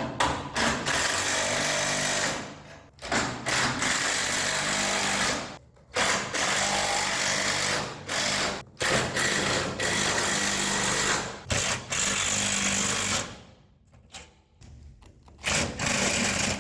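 Impact wrench hammering nuts down onto bent all-thread rods, in about six bursts of two to three seconds each with short pauses between; the tightening pulls a bowed tailgate back up into shape.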